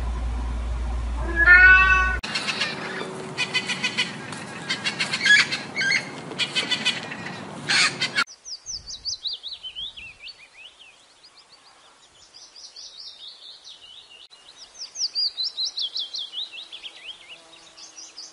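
A kitten meows once, about a second and a half in. Then come several seconds of rapid clicking chirps that stop abruptly, followed by quieter runs of high, falling chirping trills.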